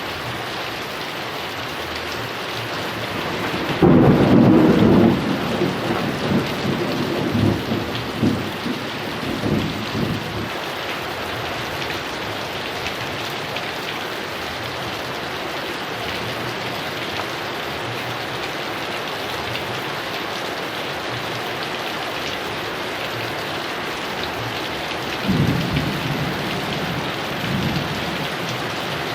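Heavy rain falling steadily, with a sharp thunderclap about four seconds in that rolls on in rumbles for several seconds, and a second, weaker roll of thunder near the end.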